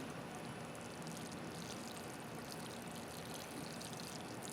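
Faint steady trickle of water being poured or run into the freshly repotted plant's pot.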